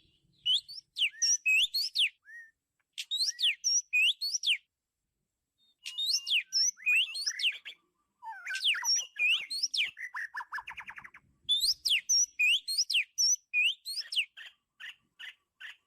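Oriental magpie-robin singing: phrases of clear whistled notes that slide up and down, each phrase one to two seconds long with short pauses between. About ten seconds in there is a quick buzzy rattle.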